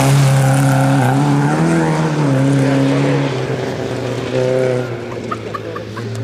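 Historic rally car's engine at high revs as the car slides through a bend on a loose forest road and pulls away. The revs drop and climb again several times with gear changes, and the engine fades as it goes.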